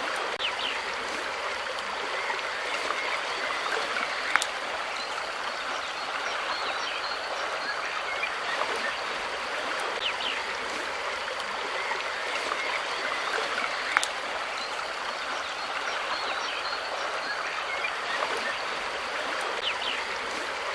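Steady rushing of flowing water, like a stream, with faint short chirps scattered through it and two sharp clicks, one about four seconds in and one about fourteen seconds in.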